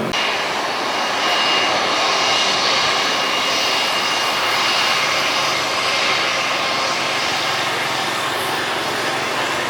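Jet airliner's engines running loud and steady, a broad rushing noise with a thin high whine laid over it; the aircraft is a Super Air Jet Airbus A320-family jet.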